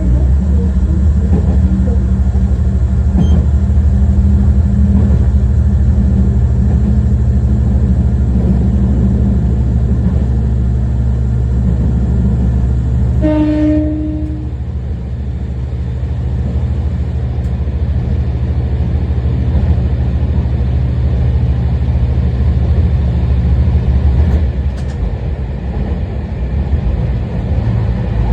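Tarumi Railway Haimo 295-617 diesel railcar running along the line, its engine giving a steady low drone over the wheel and rail noise. About halfway through the horn sounds once, briefly, and just after it the engine sound drops as the power eases off.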